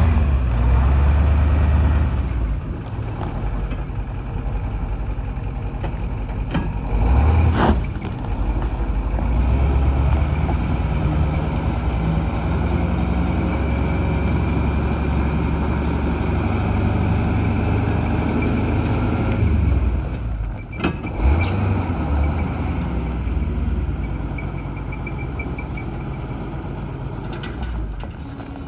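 1979 International Harvester 1854 truck engine running, its level rising and falling, with two short sharp hisses or clunks about 8 and 21 seconds in.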